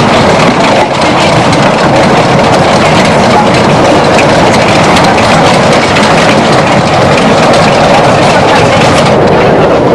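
Small tourist train running, heard from aboard its open carriage: a loud, steady rumble of the wheels and running gear on the rails.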